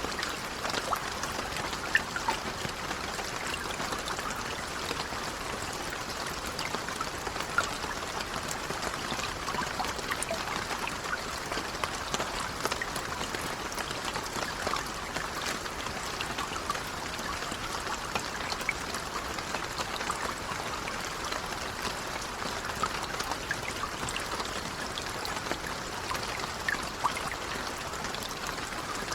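Steady, gentle rain, with many small scattered drips and patters over an even hiss.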